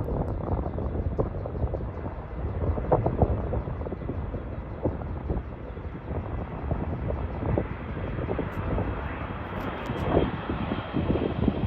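Boeing 777 jetliner's engines rumbling as it turns onto final approach, an uneven low jet noise with a faint high whine coming in during the second half.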